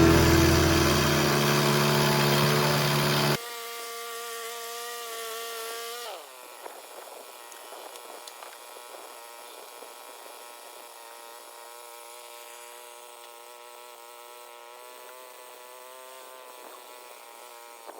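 Portable bandsaw mill's engine running, louder over the first few seconds, then cutting off abruptly to a steady hum. Its pitch drops about six seconds in, and it runs on more slowly with a few light clicks.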